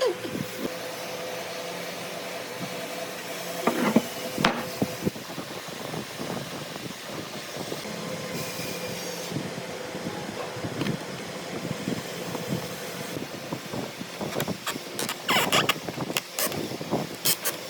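Woodworking sounds: a steady background noise with scattered knocks and taps on wood, which come thicker near the end.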